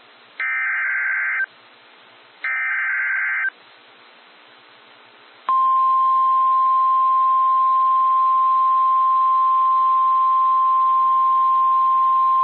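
NOAA Weather Radio Emergency Alert System broadcast: two buzzy, warbling digital bursts of SAME header data, each about a second long with a second of faint radio hiss between them. About five and a half seconds in, the steady 1050 Hz weather-radio warning tone starts and holds, signalling that a warning is about to be read.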